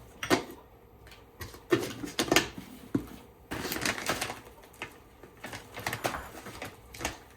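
Kitchen handling sounds: a string of light, irregular clicks and knocks from utensils and containers, with a denser scraping stretch of about a second a little past the middle.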